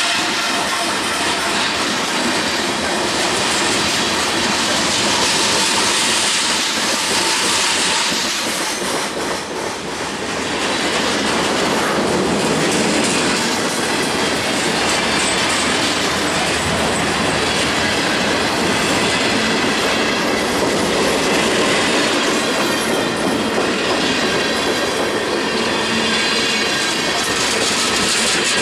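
Freight cars of a manifest train rolling past close by: a steady rumble and rattle of steel wheels on rail with clatter over the joints, and thin high wheel squeal over the top.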